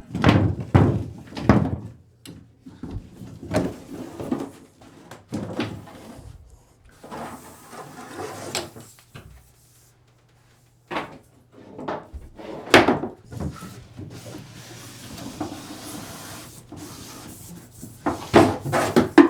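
Irregular knocks, clunks and scraping of rigid plastic water pipe being worked out through wooden floor joists, with a loud knock about two-thirds of the way in and a brief pause before it.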